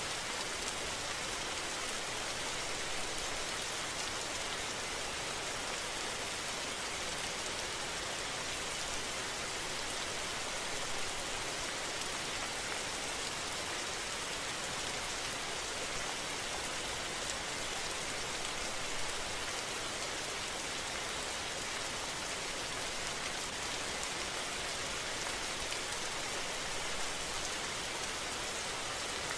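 Steady rain falling on hard surfaces: an even, unbroken hiss.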